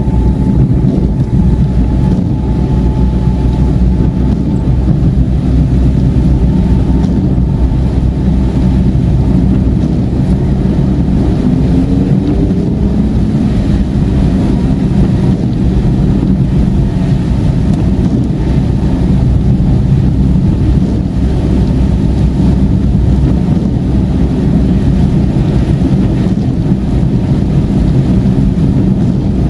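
Steady low rumble of a car cruising on a highway, heard inside the cabin: engine drone and tyre noise on a rain-wet road. A faint rising tone comes in about twelve seconds in.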